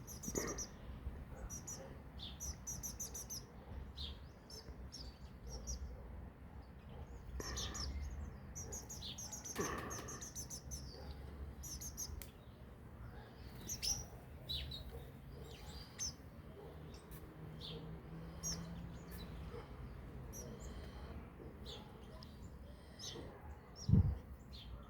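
A small songbird singing short, high, rapid trilled phrases, repeated again and again with short pauses, over a low background rumble. A single low thump sounds near the end.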